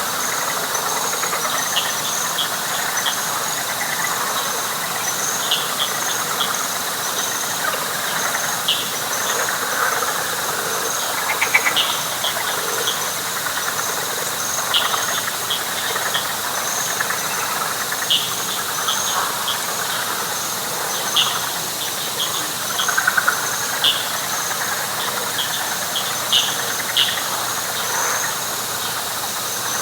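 Night chorus of frogs and insects in a wet pine flatwoods: a steady, pulsing insect trill high up, scattered short high chirps, and a dense chorus of frogs beneath.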